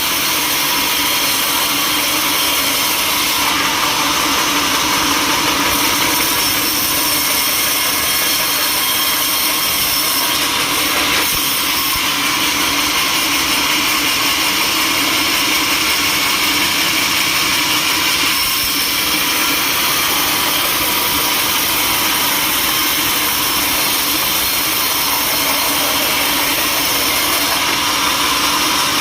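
Sawmill machinery running steadily: a continuous loud mechanical noise with several held tones, typical of a large saw working wood.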